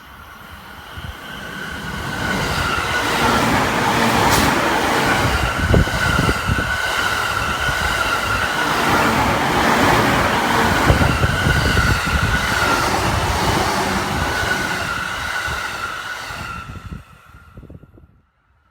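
Electric train passing on the line: the wheel and track noise builds over the first few seconds and stays loud with a steady whine. It drops away abruptly near the end.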